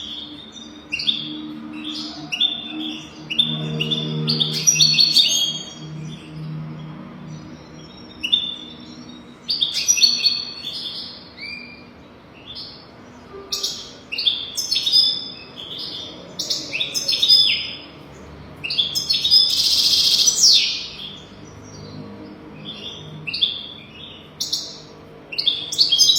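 European goldfinch singing: fast, twittering, tinkling phrases in bursts of a second or two, separated by short pauses, as a tutor song for teaching young goldfinches.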